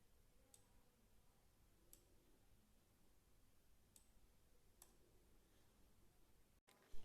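Near silence broken by a few faint, sharp clicks, spaced one to two seconds apart, and a louder knock at the very end.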